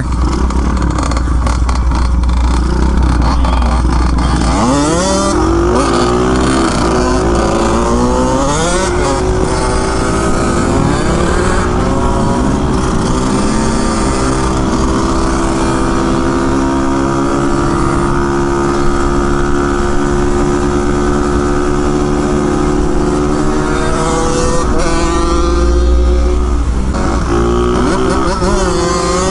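600cc pit bike engine pulling hard through the gears, its pitch climbing and dropping back with each upshift between about five and twelve seconds in, then running at a steady cruising pitch. Near the end the revs dip and climb again. Wind rumble on the microphone lies under it throughout.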